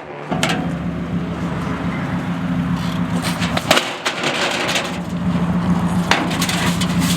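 Car engine idling through a straight-piped exhaust, a steady low drone, with a few sharp clicks or knocks over it.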